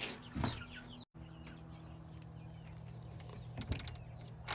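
Baby chicks peeping softly over a steady low electrical hum, with a couple of light knocks about three and a half seconds in.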